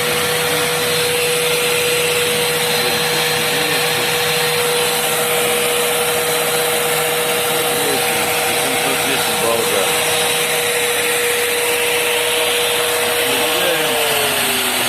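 Hair dryer running on its second (high) setting off a 12 V to 220 V inverter: a steady blowing rush with a motor whine that starts to fall in pitch near the end.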